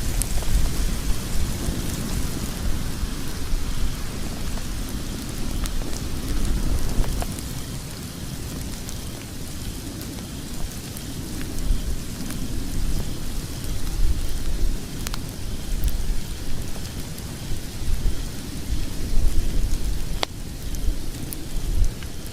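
Log fire burning in a fireplace: a steady low rumble of flames with scattered crackles and sharp pops from the logs, a couple of louder pops in the second half.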